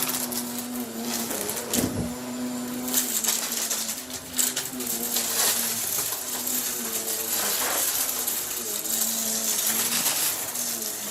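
Vacuum cleaner running with a steady motor hum that wavers slightly in pitch, while debris rattles and crackles up through it in a dense stream of clicks.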